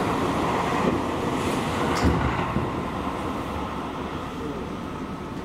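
Running noise of a Seibu Railway commuter train heard from inside the car: a steady rumble of wheels on rail, with a heavier knock about two seconds in. The noise gradually eases toward the end.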